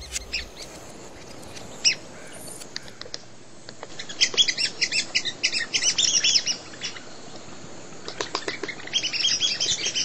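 Birds chirping in quick runs of short, high chirps, densest about four seconds in and again near the end, over a faint steady outdoor background.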